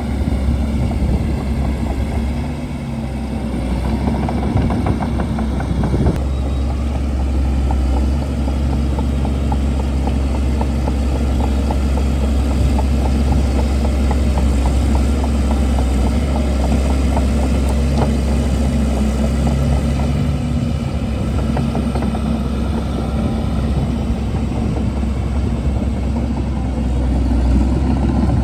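Shantui DH17C2 bulldozer's diesel engine running steadily and loud, with a continual crackle of short clicks and knocks over it.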